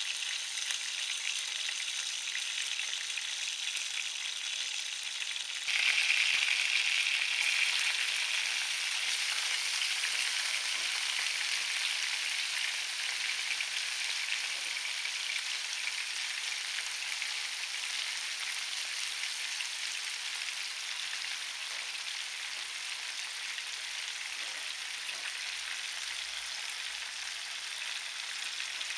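Sausages frying in hot oil in a frying pan, a steady sizzle. About six seconds in the sizzle jumps suddenly louder as chopped onions go into the oil, then slowly eases as they cook with the sausages.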